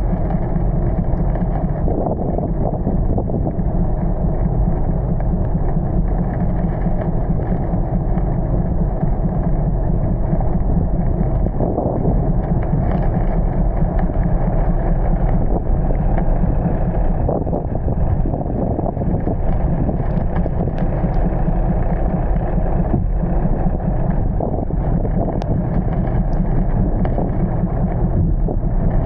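Steady low rumble of a vehicle on the move through heavy rain, with a few faint ticks now and then.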